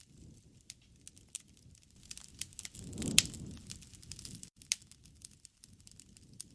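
Wood fire crackling with irregular sharp snaps and pops over a soft low rumble. About three seconds in, a louder low rush swells for a second or two, with the loudest pop in the middle of it.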